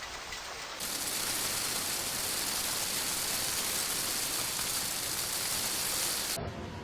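Heavy rain pouring down as a steady hiss. It turns louder and hissier about a second in and drops back abruptly near the end.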